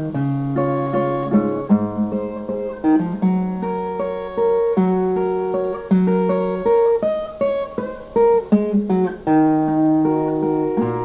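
Brazilian viola, a steel-strung folk guitar, playing an instrumental passage: a plucked melody of quick notes over lower bass notes.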